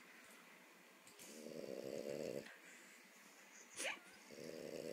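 French bulldog snoring in its sleep: two long snores, one starting about a second in and the next near the end, about three seconds apart.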